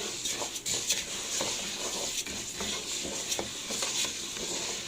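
Lisan asfour (orzo-shaped pasta) sizzling as it browns in a pot, stirred with a spoon that scrapes and clicks against the pot at irregular moments.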